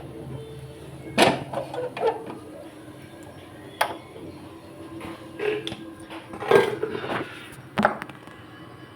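Cooking utensils knocking and clattering against a pot: several separate sharp knocks, a second or more apart, over a steady hum.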